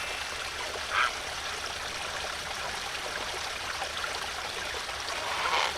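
A stream of running water flowing steadily, with two short calls or chirps rising above it, one about a second in and one near the end.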